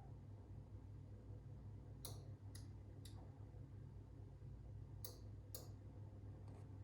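SMEG oven giving off sharp clicks, the suspect noise: three about half a second apart, then after a pause two more and a fainter one, over a low steady hum.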